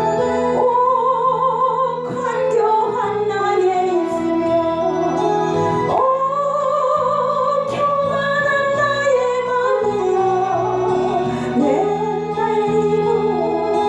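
A woman singing a praise song in long held notes with vibrato over instrumental accompaniment.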